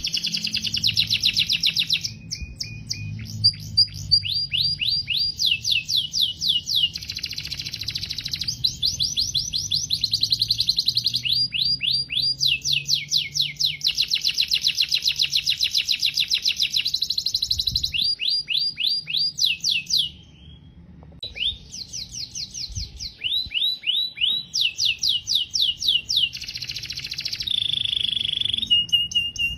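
Domestic canary singing a long continuous song of rapid trills, fast runs of repeated chirps that change to a new phrase every few seconds, with a brief pause about two-thirds of the way through.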